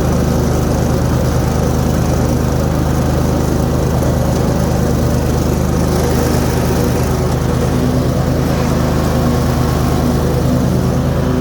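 Cub Cadet RZT 50 zero-turn mower's Kohler Pro 25 engine running steadily under mowing load, with the deck blades engaged cutting grass.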